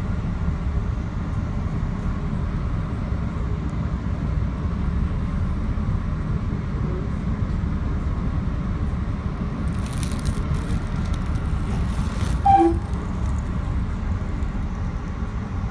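Metro-North commuter train running, a steady low rumble heard from the front of the train. About three-quarters of the way through comes one short, louder pitched blip.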